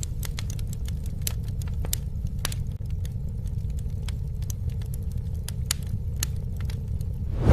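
Campfire burning: irregular sharp crackles and pops of the wood over a steady low rumble of the flames.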